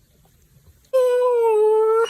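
A dog howling: one long call starting about a second in, holding a fairly steady pitch that dips slightly.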